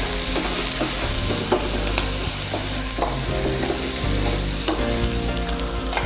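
Chopped aromatics (onion, garlic, ginger, green chilli and spring onion) sizzling in hot oil as they are stir-fried, with a steady hiss and the spatula scraping and clicking against the pan now and then.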